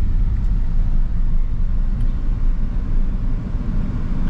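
Car's engine and tyre road noise heard from inside the cabin while driving: a steady low rumble.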